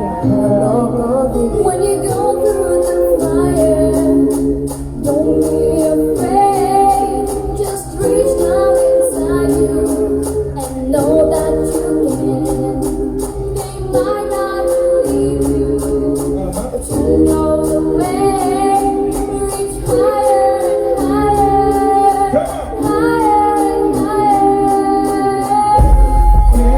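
A pop song sung live by a singer and vocal group, with a steady beat under the held, sung notes.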